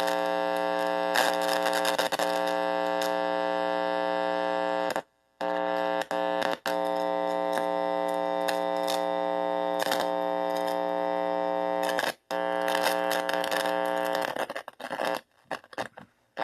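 Small guitar amplifier's speaker putting out a steady electrical buzz with many overtones, the hum picked up through bare wire and a hand on its input. It cuts out abruptly about five seconds in and again around twelve seconds, and stutters on and off near the end as the contact breaks.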